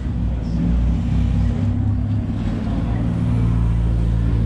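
Car engine idling with a steady low hum, growing a little louder about three seconds in.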